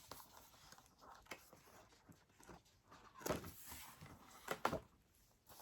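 Calendar pages being handled and turned: soft paper rustling with a few faint clicks, and two louder short flaps about three and four and a half seconds in.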